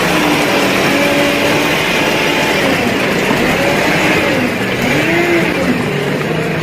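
A truck engine running, its pitch rising and falling repeatedly.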